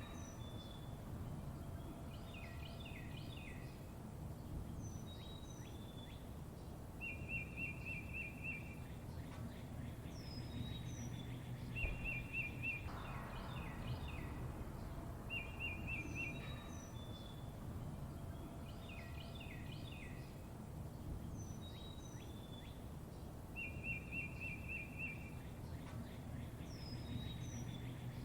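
Songbirds chirping and calling: a short rapid trill, high falling whistles and quick downward chirps. The calls repeat in the same pattern about every eight seconds over a steady low rumble.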